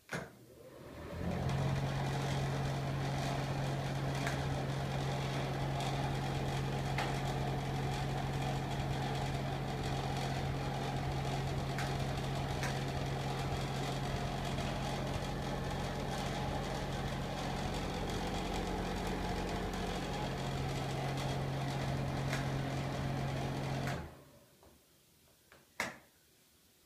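Broan ceiling exhaust fan switched on with a click, spinning up over about a second and a half, then running steadily with a low motor hum and a rush of air. Near the end it is switched off and winds down over about a second, followed by a couple of sharp clicks.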